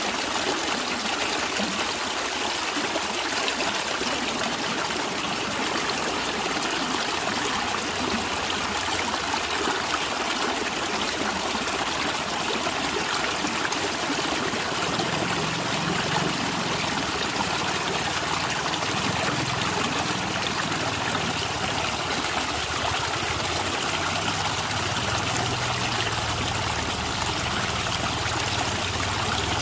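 Natural stream of water flowing and trickling steadily, with a lower burble joining in about halfway through.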